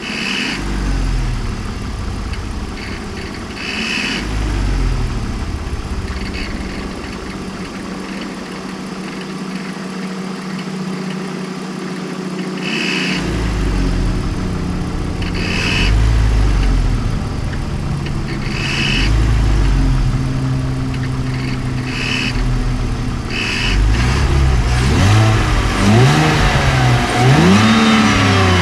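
BMW Z4 E85's M54 2.2-litre straight-six engine idling stationary with a series of light throttle blips, quicker ones near the end. Each blip brings a brief high whistling, squealing hiss. This is the unexplained noise that appears around 800–1000 rpm; the belts and pulleys have already been replaced, and the owner suspects the original alternator or the intake.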